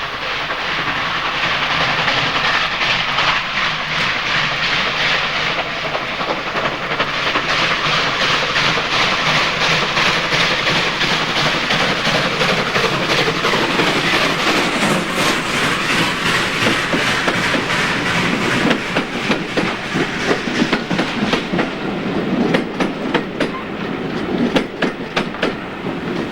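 A train running past, its wheels clattering over the rail joints. The clicks grow sharper and more distinct from about halfway through.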